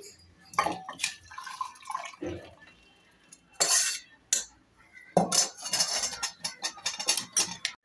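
Metal pot and spoon clanking and scraping as cooked dal is taken off the stove, ending in a quick run of clinks.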